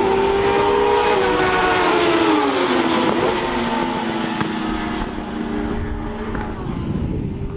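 Several race motorcycles from the pre-injection (carburettor) class at high revs, their engine notes overlapping; the loudest note drops in pitch about three seconds in.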